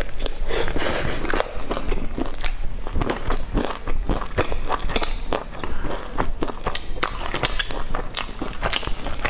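Close-miked chewing and biting: a dense run of sharp, irregular mouth clicks and crackles as a mouthful of food is chewed.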